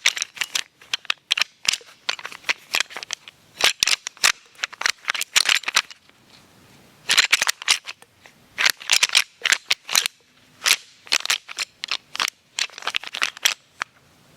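Rattling call that imitates two whitetail bucks sparring: rapid clashing and clicking in three long bouts, with short pauses between them, close to the microphone.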